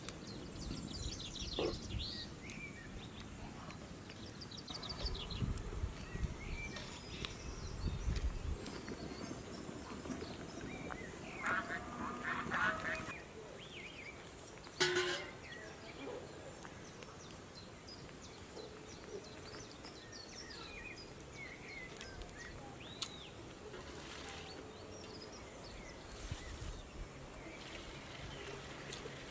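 Village birds calling: scattered high chirps and, about halfway through, a short run of honking calls like geese or ducks.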